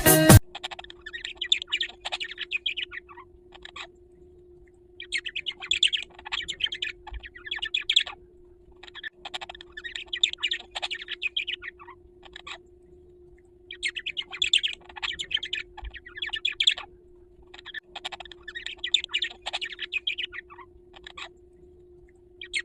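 A bird chirping and twittering in rapid bouts of about two to three seconds, with short pauses between, over a steady low hum.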